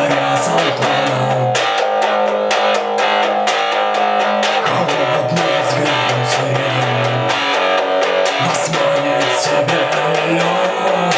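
Instrumental passage of a rock song: guitars over low bass notes that change every two to three seconds, with no singing.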